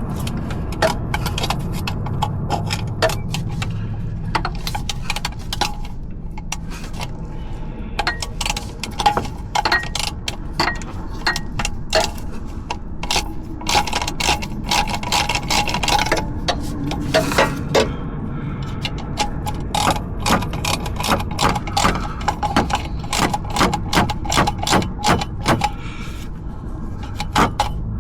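Hand tools clicking and clinking irregularly against metal parts, with quick runs of rapid clicks, as work goes on under the hood.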